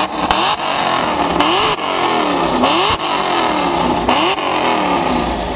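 Car engine being revved, its pitch falling and climbing again several times in a row.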